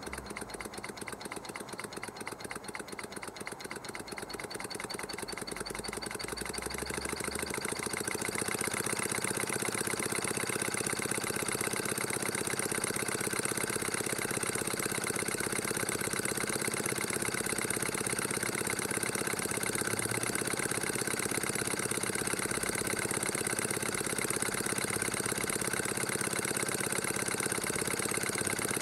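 H.E. Boucher model twin-cylinder marine steam engine running on compressed air: a fast, even chuffing from its exhaust. It grows louder over the first eight seconds or so, then holds steady.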